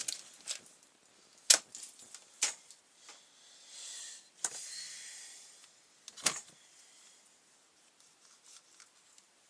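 Tools and brush cutter parts being handled on a workbench: about six sharp clicks and light knocks with pauses between, and a soft rustling hiss a few seconds in.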